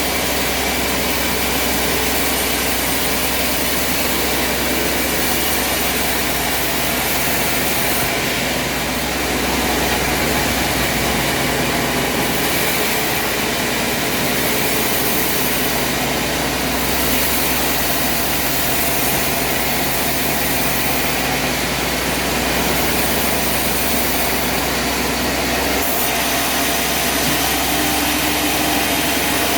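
Engine-driven sawmill machinery running steadily, with a high hiss that comes and goes a few times.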